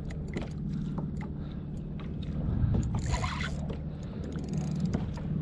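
Water sloshing against a fishing kayak's hull over a steady low hum, with light clicks every fraction of a second and a short splash about three seconds in.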